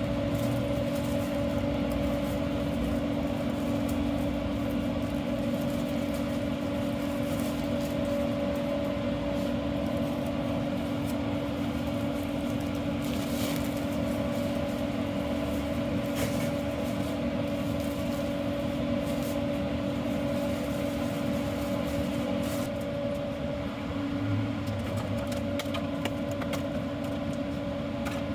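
Steady machine hum at a constant pitch over a noisy background, with a few faint clicks.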